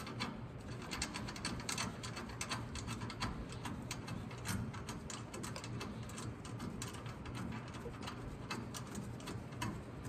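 Socket ratchet clicking in short irregular runs, several clicks a second, while nuts are run down on the drive shaft bolts, over a low steady hum.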